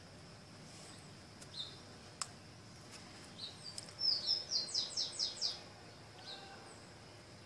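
Small bird calling: a few scattered high chirps, and about four seconds in a quick run of about eight high notes, each falling in pitch. A single sharp click a couple of seconds in.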